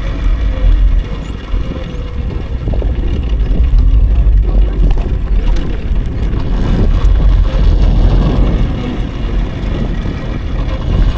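Riding on an electric dirt bike: a loud, uneven low rumble of wind buffeting the microphone and tyre noise, with a faint steady whine above it.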